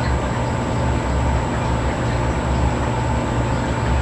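Steady low mechanical hum and rumble with a faint steady higher tone, unchanging throughout.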